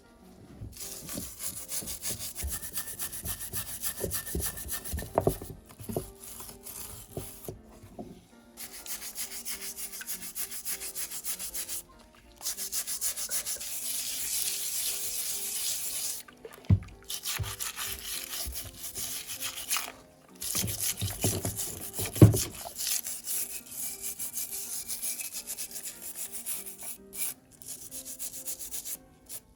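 Rapid back-and-forth hand rubbing on a workpiece, as in sanding or scrubbing, in stretches of a few seconds separated by short pauses. A couple of sharp knocks come in the second half.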